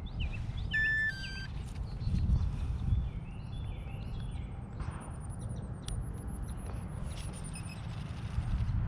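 Wind buffeting the microphone in a low, steady rumble, with birds chirping and calling in many short repeated notes.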